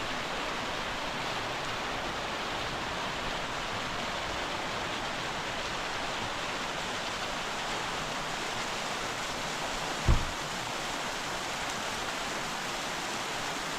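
Mountain waterfall: a steady, even rush of falling water, with one brief low thump about ten seconds in.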